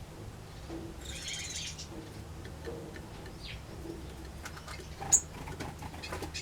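Aviary birds (finches, waxbills and small parrots) chirping and calling. There is a short burst of chatter about a second in, a single falling call in the middle, and a sharp, loud chip near the end.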